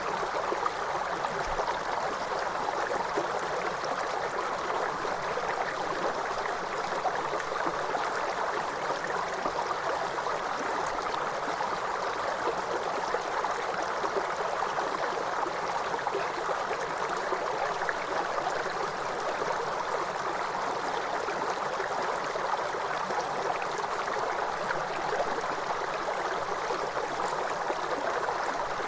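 A waterfall's water cascading in a steady, even rush.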